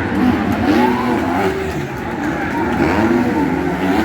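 Motocross bike engines revving up and down on the track, their pitch rising and falling again and again as riders work the throttle, with more than one bike heard at once.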